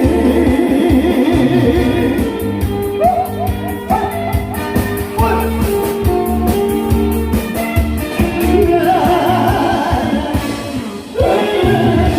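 A song performed live: a voice singing with vibrato over instrumental accompaniment with guitar and a steady beat. The music drops briefly near the end, then picks up again.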